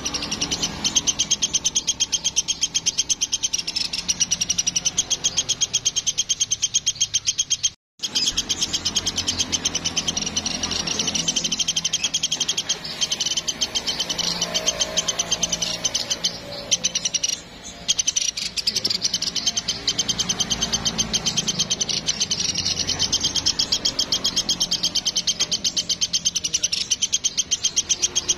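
Woodpecker (platuk) calling in a continuous, rapid pulsed trill, the high chattering repeated without pause; the sound cuts out for an instant about eight seconds in.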